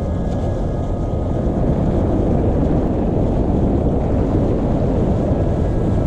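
Steady wind buffeting the microphone over the rush of water along the hull of a Volvo 65 ocean racing yacht under sail.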